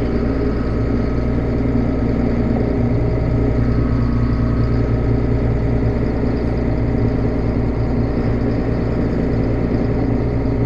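Farm tractor's diesel engine running steadily at a constant speed while maneuvering up to a grain wagon to hook it up.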